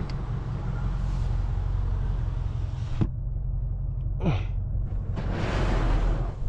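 BMW M550i's twin-turbo V8 idling with a steady low hum. A click and a quick falling sweep come through in the middle, and a hiss of about a second near the end.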